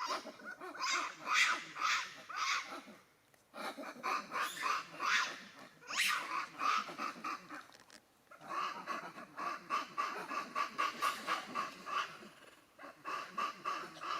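Macaque calling in rapid pulsed bursts, several a second, in repeated bouts broken by short pauses.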